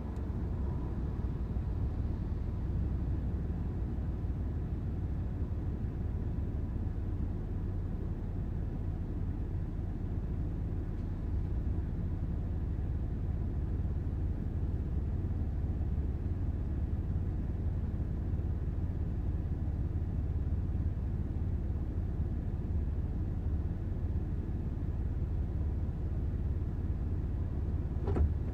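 Steady low rumble of a car driving along: road and engine noise, even and unbroken.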